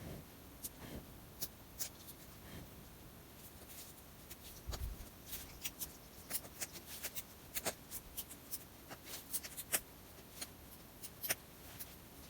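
Newly lit kindling fire crackling, with irregular sharp pops and snaps that come thicker in the second half, and a soft low thump about five seconds in.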